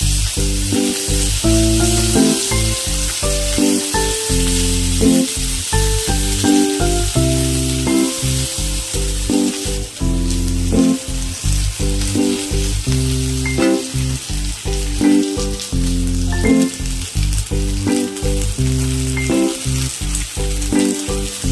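Soya chaap frying in a pan, a steady sizzle, under background music whose low notes change step by step.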